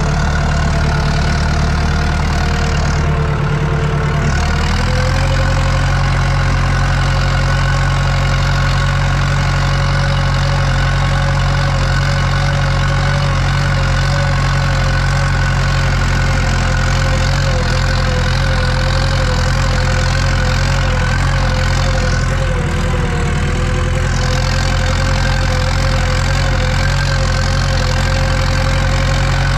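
Tractor diesel engine running steadily under load while pulling a cultivator, heard from inside the cab; its note shifts slightly about four seconds in, then holds even.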